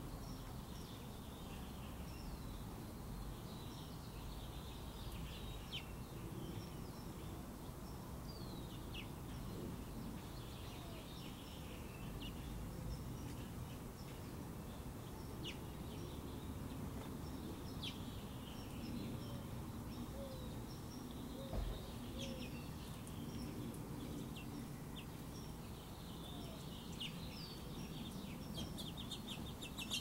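Outdoor ambience with small birds chirping now and then in short, high notes over a steady low rumble. A single low thump comes a little past two-thirds of the way through.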